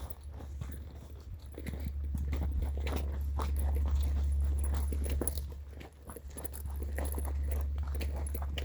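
Footsteps crunching on a woodland path, a quick uneven run of small crackles from twigs and leaf litter underfoot, over a steady low rumble of wind on the microphone that swells in the middle.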